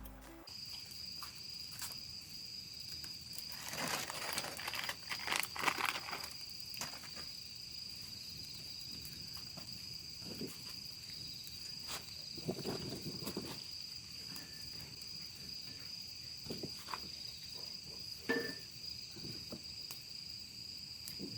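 Night insects such as crickets and other grass insects keep up a steady, high, unbroken trill. Scattered sharp clicks and a few short rustling sounds come over it.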